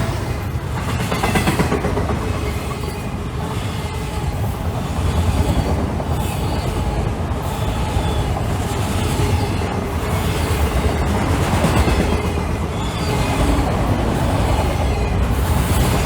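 Freight train cars rolling past at close range, with a continuous low rumble and repeated clatter of steel wheels over the rails.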